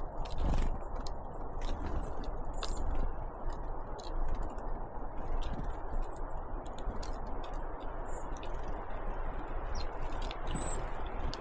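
Great tits and blue tits at a feeder: scattered sharp taps and clicks from beaks and feet on the feeder, with a few brief high calls, one near the end sliding down in pitch, over a steady low rumble.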